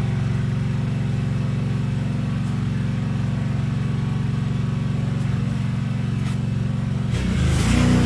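Small petrol engine of yard equipment, such as a mower, running at a steady speed with no change in pitch, stopping about seven seconds in as music takes over.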